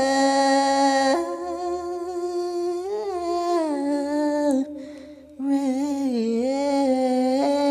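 A person's voice humming long, held wordless notes that step up and down in pitch, with a short break for breath about five seconds in.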